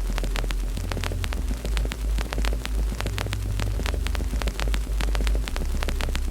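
Wood fire crackling with many sharp pops, over a loud low drone that steps to a different pitch several times.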